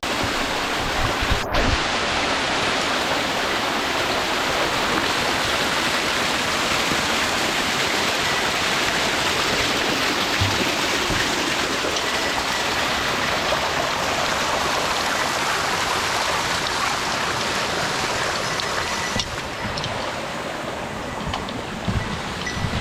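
Mountain stream rushing steadily over rocks, a dense, even noise of fast-flowing water that gets a little quieter near the end.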